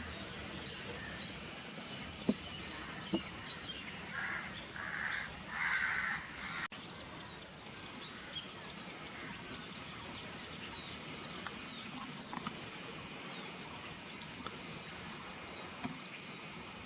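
Quiet rural outdoor ambience with a bird calling three times in quick succession about four to six seconds in, over a faint steady high-pitched hum.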